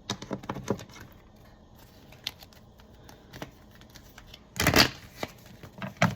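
Tarot cards being handled: scattered light clicks and taps, with one louder, brief swish of cards about five seconds in.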